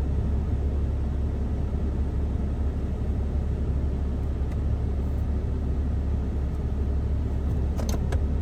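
Ram 2500's 6.7-litre Cummins diesel idling, a steady low drone heard inside the cab, with a few light clicks near the end.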